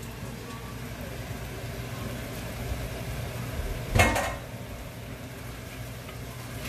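Raw shrimp sizzling in a stainless-steel pot over tomatoes and onions, stirred with a wooden spoon, with one sharp metal clank about four seconds in.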